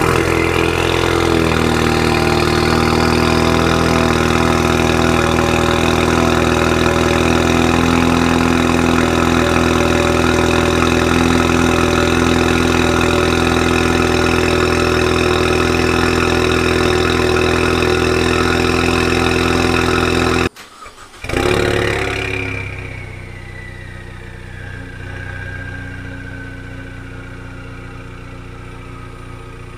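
Ford Mustang EcoBoost's turbocharged 2.3-litre four-cylinder, breathing through a catless downpipe, stock resonator and muffler delete, cold-starting and holding a loud, steady fast idle. About 20 seconds in the sound cuts off briefly. The engine then starts again warm, flares, and settles to a quieter idle with a whine that slowly falls in pitch.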